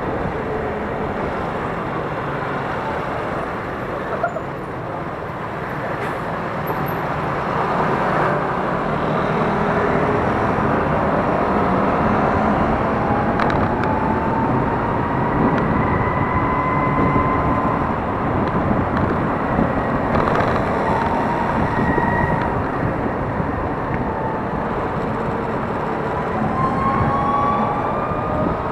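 Traffic and wind noise heard from a moving electric scooter, with a thin whine that rises slowly in pitch through the middle and again near the end as the scooter speeds up.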